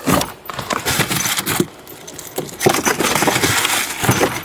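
Rustling, clattering and knocking as items are handled and moved around inside a car during a search, with irregular short clicks and scrapes.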